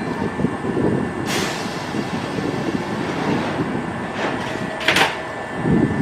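Kintetsu electric commuter train at a station platform: a steady low running rumble, broken twice by a short sharp burst of noise, about a second in and again about five seconds in.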